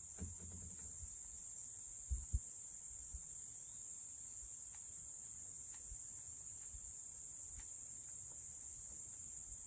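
Steady high-pitched chorus of crickets or other insects, with a couple of faint low knocks about two seconds in.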